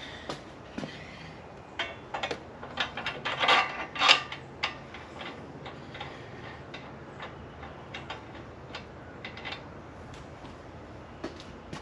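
Irregular clicks and knocks of hard parts and packaging being handled, with a quick cluster of louder knocks about three to four seconds in and sparser ticks after.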